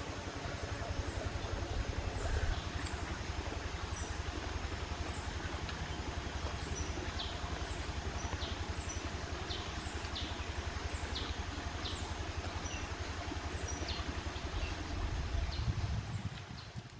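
Outdoor ambience: a bird repeats short, high, falling chirps about once a second over a low steady rumble. The sound fades out near the end.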